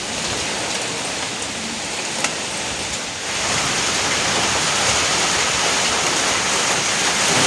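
Steady rain falling, an even hiss with no distinct drops. About three seconds in it turns louder and hissier.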